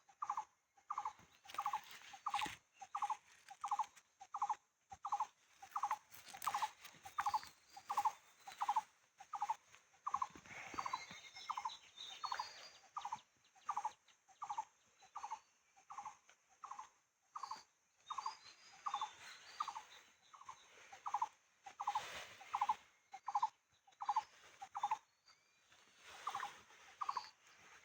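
A bird calling over and over, a short pitched note repeated evenly about three times every two seconds, with faint higher chirps of other birds behind it.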